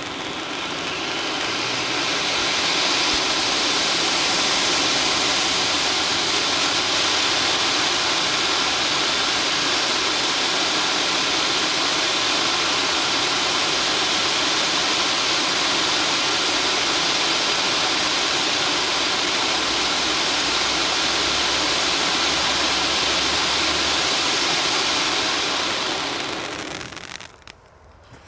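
Hirt & Co T1 stage fountain (Bühnenfontäne) burning: a steady, loud hiss of the spark jet that builds up over the first couple of seconds, holds even for about 25 seconds, and dies away near the end.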